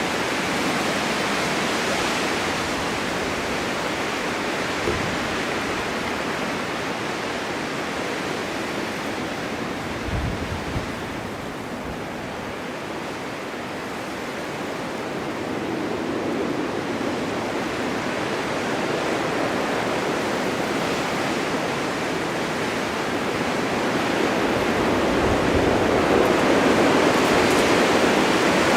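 Blizzard wind driving snow, a continuous rushing that eases slightly around the middle and gusts louder near the end.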